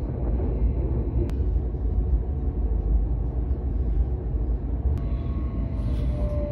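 Electric passenger train running, heard from inside the carriage as a steady low rumble, with two sharp clicks, about a second in and about five seconds in. Near the end a faint whine sets in, falling slowly in pitch as the train pulls into a station.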